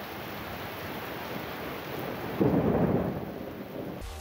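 Heavy rain pouring steadily on trees and waterlogged ground, with a louder low rumble, most likely thunder, swelling about two and a half seconds in and dying away within a second.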